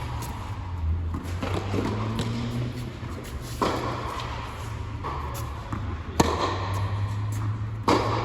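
Tennis ball being hit back and forth in a rally: sharp racquet strikes a couple of seconds apart, with fainter ball bounces between them, over a steady low hum.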